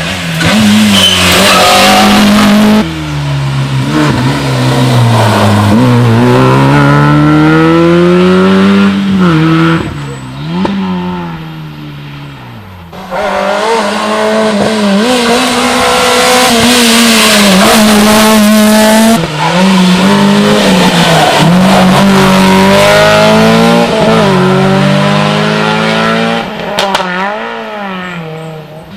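Rally cars driven flat out on a closed special stage, engines revving high and dropping through gear changes as they pass. The sound changes abruptly a few times as one pass gives way to another.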